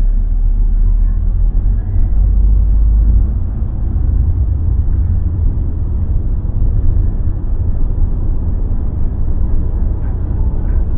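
Car driving, with a steady low rumble of road and engine noise heard from inside the cabin; the rumble shifts slightly in pitch about three seconds in.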